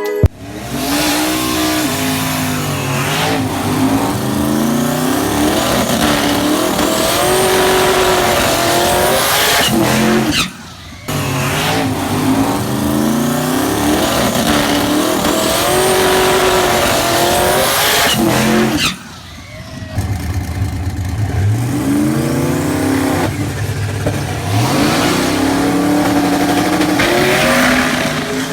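Twin-turbo 1968 Dodge Dart drag car accelerating hard on a drag strip, its engine pitch climbing and dropping back at each gear change. The sound comes as three separate runs cut together, with an abrupt break about ten seconds in and another near nineteen seconds.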